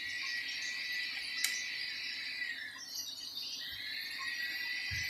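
Insects chirring steadily in a high, even buzz that thins out briefly around the middle, with one faint click.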